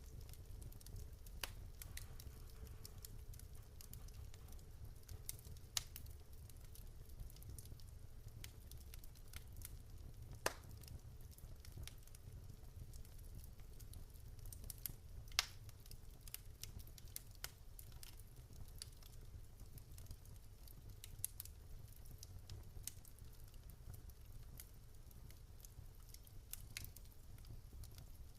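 Wood fire burning in a fireplace: scattered sharp crackles and pops from the burning logs over a steady low rumble, with a few louder pops about ten and fifteen seconds in.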